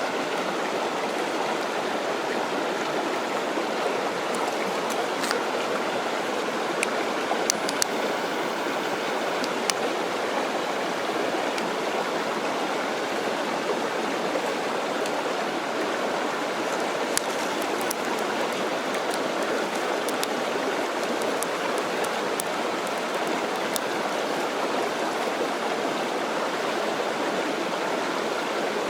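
Loud mountain stream rushing steadily, with a scattered few sharp clicks over it.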